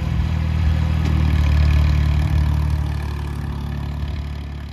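Tractor engine running steadily at low revs. It swells a little about a second in, then fades away near the end.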